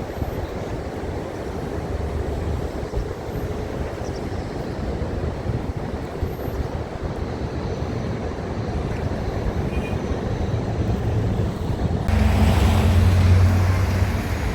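Steady outdoor traffic rumble with wind noise on the microphone; about twelve seconds in it gets louder as a low engine hum comes close.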